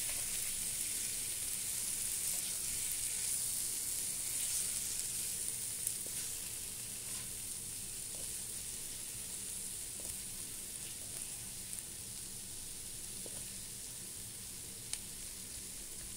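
Chicken leg pieces in a thick masala sizzling in a nonstick pan while being turned with a spatula, frying dry without added water. A steady hiss that eases off slightly, with a few faint ticks.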